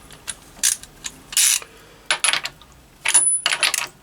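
Socket ratchet wrench clicking in several short bursts as it is worked back and forth on a nut.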